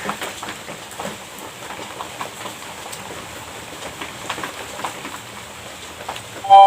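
Small crackles, clicks and taps of a pastry and its packaging being handled and eaten, over a steady hiss. Near the end comes a short, loud ringing tone with several pitches at once, which stops after about half a second.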